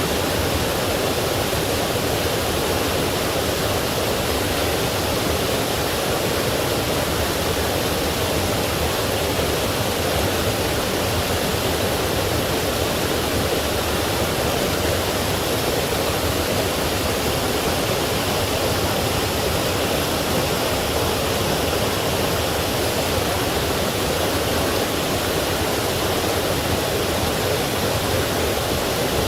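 Forest stream rushing over rocks, a steady even rush of water with most of its weight in the low middle.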